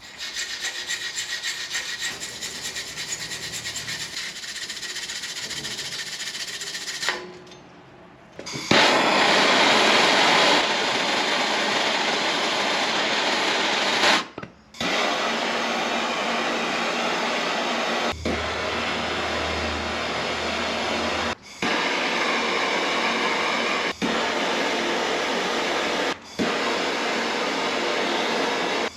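Tools working the frame's aluminum tubing, a steady rasping and grinding noise like filing or cutting metal. It comes in several stretches that stop and start abruptly, loudest a little past the first quarter.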